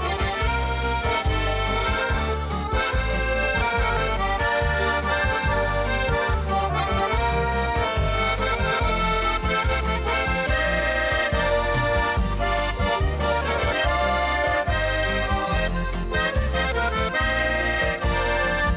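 Accordion playing an instrumental passage of a Russian folk song, with sustained melody notes over a steady bass-and-chord accompaniment pulsing about twice a second.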